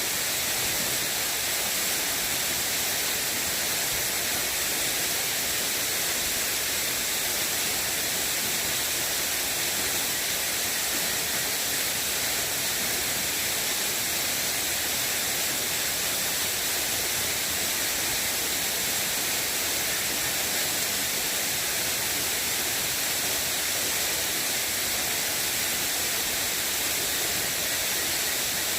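Steady, even hiss of water, with no breaks or separate drops or impacts.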